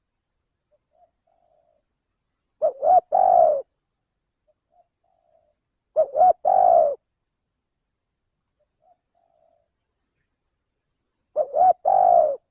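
Spotted dove (tekukur) cooing three times, a few seconds apart. Each call is two short notes followed by a longer one, with faint soft notes in between. It is a tekukur lure call of the kind used to draw in wild doves.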